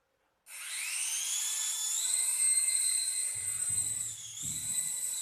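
Small electric toy helicopter's motor and rotor starting up about half a second in with a high whine that rises in pitch, then holds steady, dipping briefly twice. A few low thuds come partway through.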